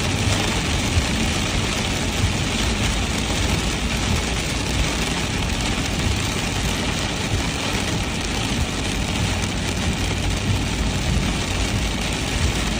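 Heavy rain falling steadily, over a constant low rumble.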